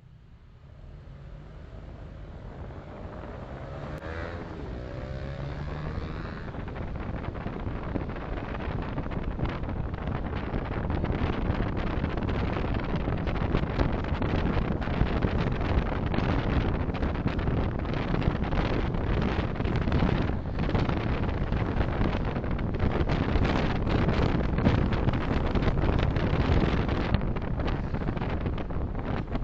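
Car driving, recorded by a dashcam: road and wind noise that builds over the first ten seconds or so as the car gains speed, then stays loud and steady with gusty buffeting of wind on the microphone.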